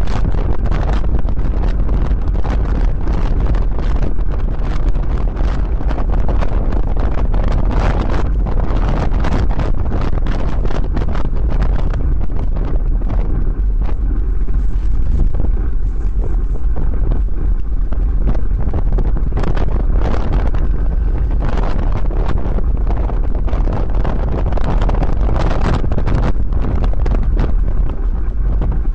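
Wind rushing over the microphone of a moving bicycle, a steady loud low rumble with constant crackling buffets.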